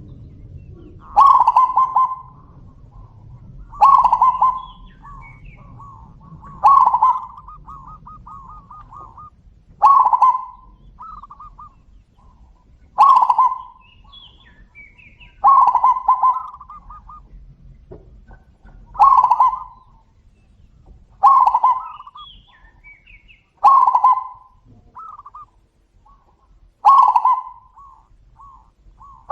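Zebra doves (perkutut) calling back and forth. About ten loud calls come every two to three seconds, each a sharp coo followed by a quick run of shorter notes, with fainter answering coos between them.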